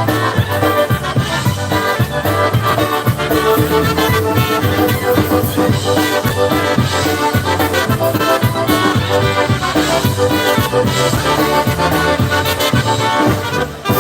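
Live polka band playing an instrumental passage, accordion to the fore over bass and drums, with a last hit and falloff as the tune ends near the end.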